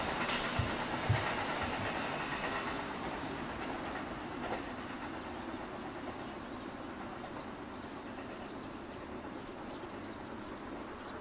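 Electric local train on the Tohoku Main Line running away over the rails, its wheel and rail noise fading steadily. There are a couple of wheel clacks over rail joints in the first second or so.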